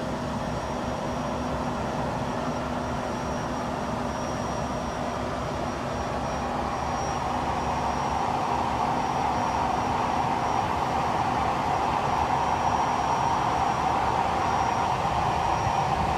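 Gulfstream G280's Honeywell HTF7250G turbofan engines running steadily just after start, the start valve closed and the engine up at idle. A steady jet rush with faint high tones that grows a little louder in the second half.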